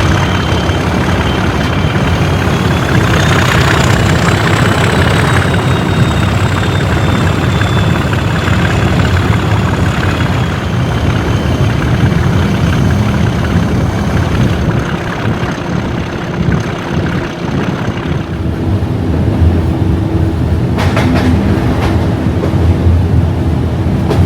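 English Electric 12CSVT V12 diesel engine of Class 37 locomotive D6700 running under power, its turbocharger whistle rising a couple of seconds in and then slowly easing off. A few sharp knocks near the end.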